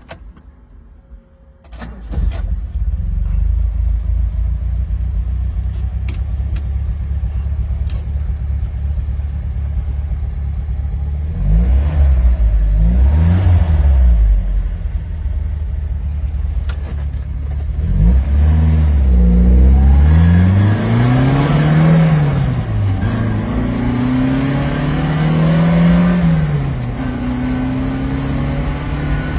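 1977 Jaguar XJS's V12 engine starts running steadily about two seconds in. Its engine speed rises and falls partway through, then several more times in the second half.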